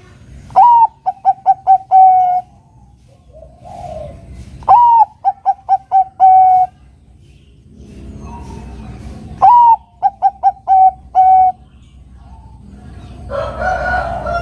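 Zebra dove (Bangkok-type perkutut) singing its cooing song three times: each phrase opens with a rising note, runs into a quick string of short coos and ends on a longer held coo. Fainter, rougher calls come in twice between the phrases.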